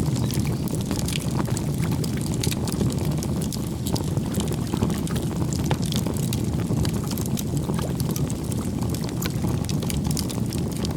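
Wood campfire crackling: many small sharp pops and snaps over a steady low rush of burning flames.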